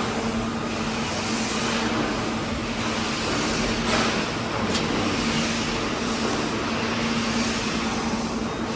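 Vehicle noise: a steady engine hum under a constant road rumble, with whooshes of passing traffic every couple of seconds.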